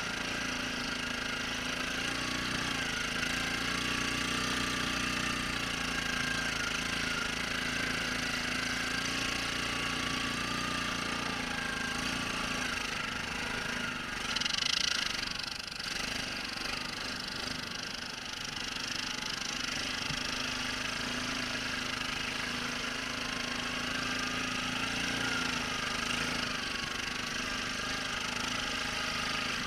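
ATV engine running steadily, its pitch drifting slightly up and down, with a brief louder hiss about halfway through.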